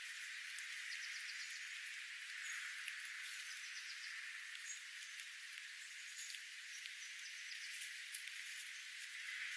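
Steady outdoor hiss with a few faint, short high bird chirps and small ticks scattered through it.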